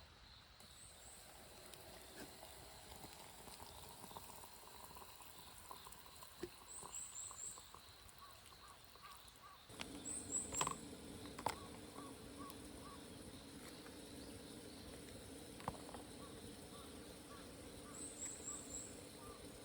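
Quiet outdoor ambience with short bursts of three or four very high chirps, repeated several times. A few sharp knocks come near the middle.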